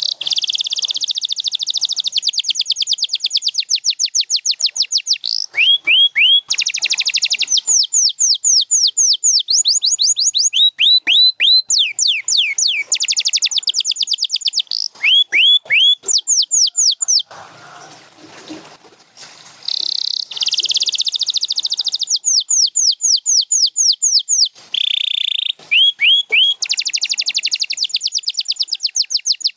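Domestic canary singing: fast rolling trills of rapidly repeated high, sweeping notes, each roll switching to a new note type every second or two, with a short break in the song a little past halfway.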